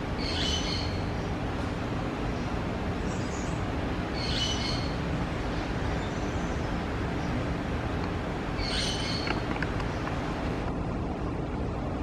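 A bird giving short, high calls, each about half a second long, about four times, over a steady rushing noise.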